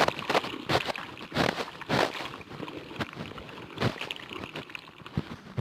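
Slime being worked by hand: irregular wet squelching and sloshing bursts.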